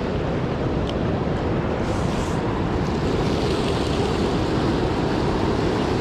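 Steady rushing of fast-flowing creek water, with wind buffeting the microphone.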